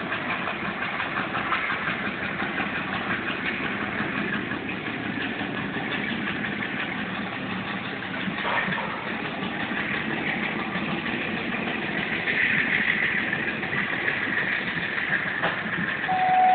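Diesel locomotive engine running steadily, with an even mechanical rumble.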